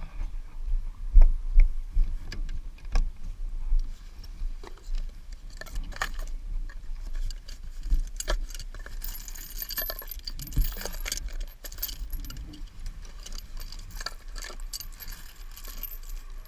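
Metal tools and small parts clinking and jangling as they are handled during a hand repair on a motorcycle, with irregular sharp knocks and a denser jingling stretch in the second half.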